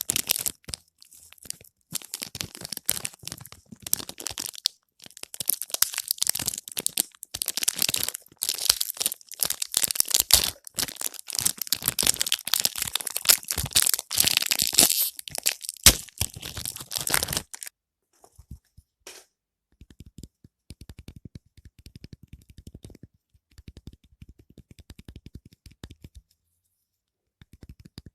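Soap packaging being crinkled and torn open: dense crackling and tearing of wrapper for most of the stretch, stopping abruptly. After that, only faint rapid ticking is heard.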